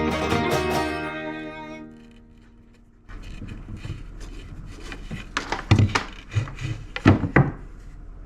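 Background music that fades out over the first two seconds. Then handling noise from wooden pieces on a workbench: a few separate knocks and rubs, the loudest near the end.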